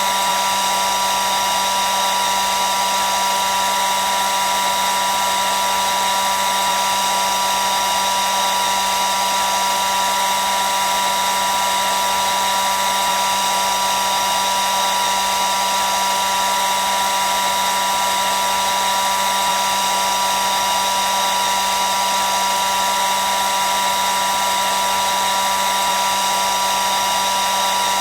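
Hair dryer running continuously: a steady airy whoosh with a constant high motor whine.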